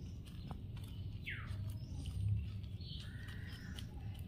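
A bird calling: one quick falling whistle about a second and a half in, then a held whistled note about three seconds in, over a low steady rumble.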